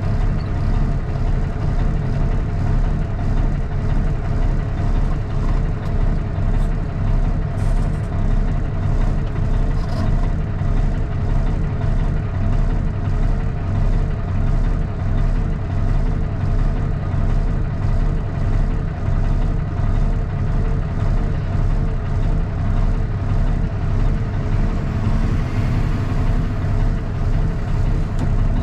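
Straight-piped Cummins ISX inline-six diesel of a Kenworth T800 running at a steady engine speed, a deep unmuffled rumble heard from inside the cab.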